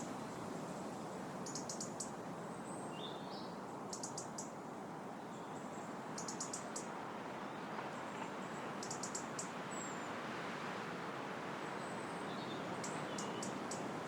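Wind blowing steadily through trees, a continuous rustle of leaves. Over it, small birds call: short, high, rapid trills of a few ticks repeating every two to three seconds, with a few brief chirps between.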